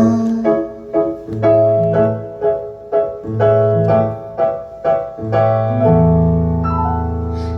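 Keyboard with a piano sound playing an instrumental break: a run of short, evenly spaced chords over bass notes, ending on a long held chord, with no singing.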